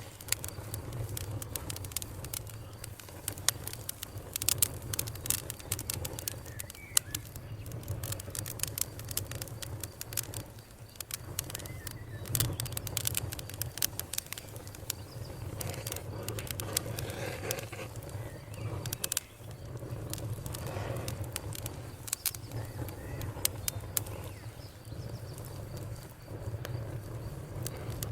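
Campfire crackling, with frequent sharp pops and snaps over a low steady rumble, and birds calling faintly in the background.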